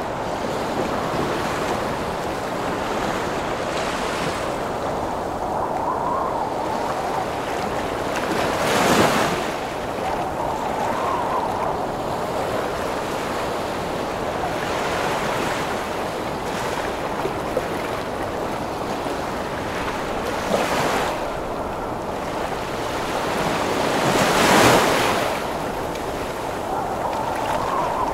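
Heavy sea waves rushing and breaking under a howling storm wind, with three big waves crashing louder, about a third of the way in, again after 20 seconds and near the end.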